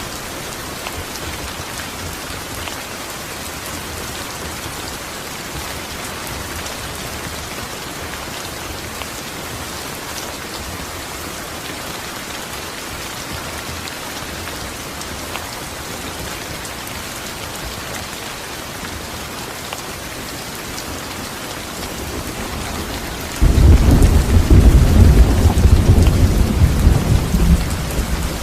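Steady rain falling. About 23 seconds in, a loud clap of thunder breaks in with a deep rumble that begins to die away near the end.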